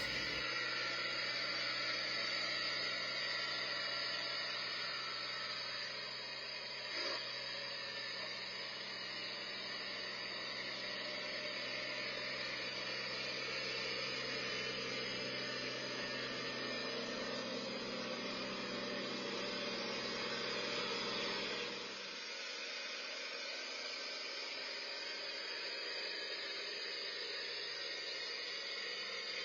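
Kubota BX2230 compact tractor's diesel engine running steadily under a constant hiss, dropping slightly in level about 22 seconds in.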